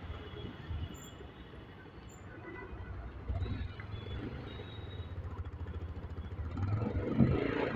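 Vehicle noise from a motorcycle ride: a steady low engine and road rumble that grows louder near the end.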